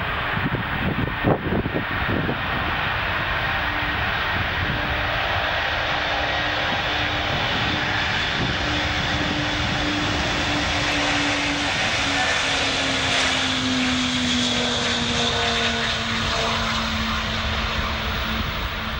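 Large aircraft's engines running with a steady rush and a tone that slowly falls in pitch over the second half.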